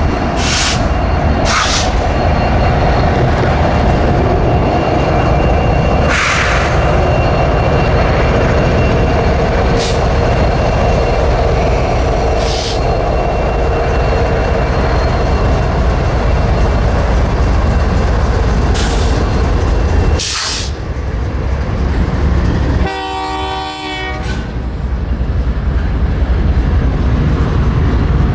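Freight train passing close by: a steady heavy rumble of wheels and cars on the rail, with a few sharp clicks. Near the end comes a short horn note, about a second long.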